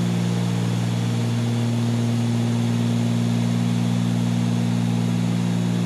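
Cessna 310Q twin piston engines and propellers droning steadily in the cabin in flight. A constant low hum holds several steady tones with no change in speed.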